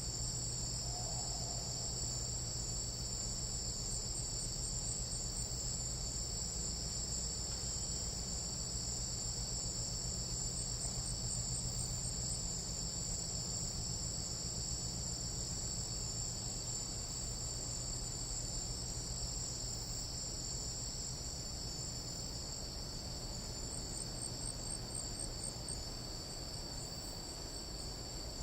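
Tropical night insect chorus: a steady, unbroken high-pitched trill sitting at two pitches, with a faint low hum beneath.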